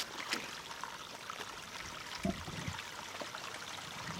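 Small woodland creek trickling steadily, with a couple of light clicks near the start.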